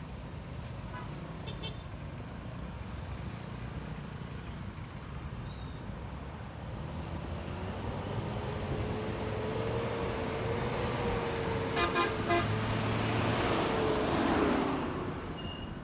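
Riding on a Honda ADV 150 scooter in traffic: the single-cylinder engine and road rumble run steadily under wind on the microphone. From about halfway through, a passing vehicle's whine and tyre noise grow louder to a peak near the end, then fade. A few short horn toots sound about twelve seconds in.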